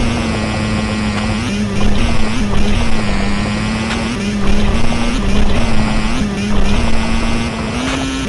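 Motocross motorcycle engine running during a trail ride, its note stepping up and down slightly with the throttle and the loudness surging several times.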